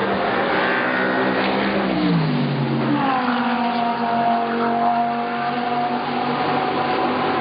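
GT race cars' engines running at speed as cars pass one after another. One engine note drops in pitch about two seconds in as a car goes by, and another car's engine note slides down and then holds steady.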